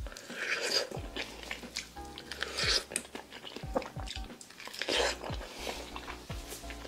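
Close-miked biting and chewing of soft, ripe mango flesh, with a few louder wet bites: about half a second in, around two and a half seconds, and around five seconds. Background music plays under it.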